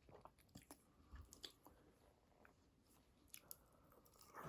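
Faint eating sounds, with quiet chewing and a scattering of small clicks, close to silence.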